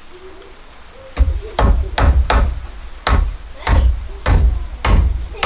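Hammer blows on wood, struck repeatedly at about two a second, starting about a second in.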